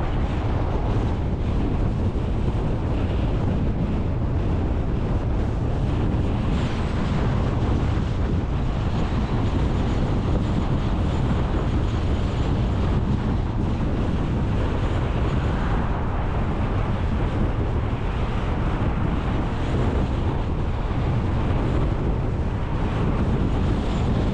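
Steady low rumble and hiss of a car on the move: road and wind noise.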